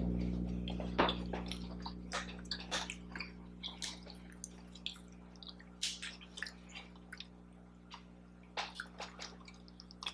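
Close-miked chewing of a cookie: irregular wet mouth clicks and smacks, over a faint steady hum.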